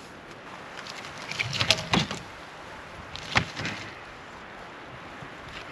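Cut wooden fence posts being tossed onto a load, knocking together with hollow wooden thuds: a quick cluster of knocks about a second and a half in, then one more about three and a half seconds in.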